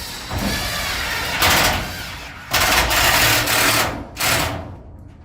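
Power drill run in three loud bursts, drilling or driving screws into the metal garage door panel.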